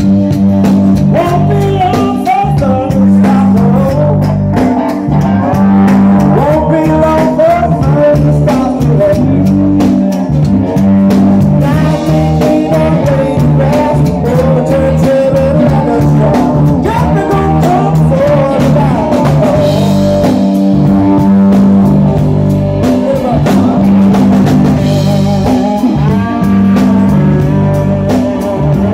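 Live soul-blues band playing an instrumental passage, with guitar and keyboards over a steady low accompaniment and a lead melody that bends and wavers.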